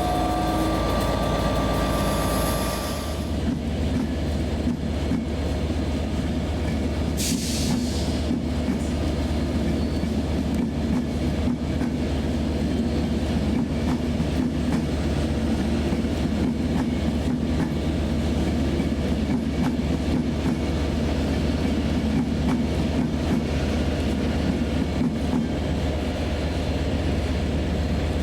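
Train running through the station with a steady low rumble, a few whining tones over the first three seconds, and a short hiss about seven seconds in.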